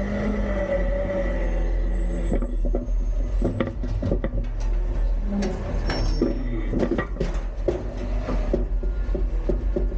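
Autocar-Heil Freedom front-load recycling truck working a bin: engine and hydraulics running, then, from about two seconds in, a long run of sharp knocks, bangs and clatter, typical of a bin being shaken and its recycling falling into the hopper.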